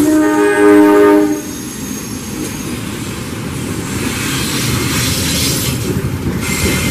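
Horn of a CC 201 diesel-electric locomotive blowing one loud chord of about a second and a half as it passes. Then the passenger coaches roll by with a steady rumble and clatter of wheels on the rails, and a thin wheel squeal starts near the end.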